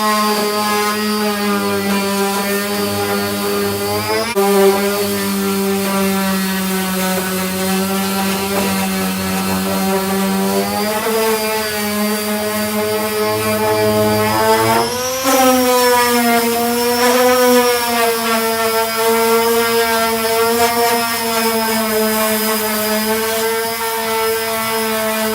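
Electric disc sander with a 240-grit disc running steadily on body filler. Its motor hum wavers in pitch as the pressure on the work changes, with a brief jump in pitch about fifteen seconds in.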